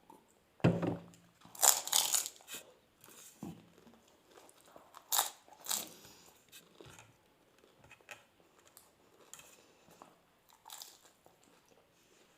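Doi fuchka (yogurt-filled pani puri) being bitten and chewed fast. The crisp fried shells give several loud crunches in the first half, then softer, wetter chewing.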